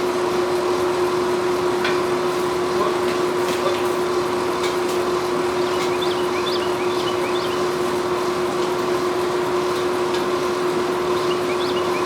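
A forge running steadily while a knife blade heats for hardening: an even rushing noise with a constant hum under it.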